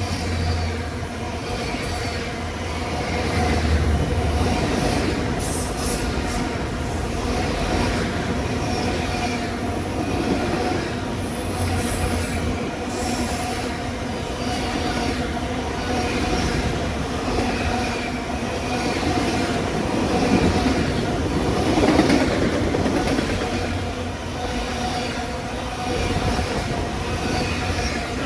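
Train rolling past, its steel wheels clacking over rail joints at an even rhythm and squealing against the rail, over a steady drone.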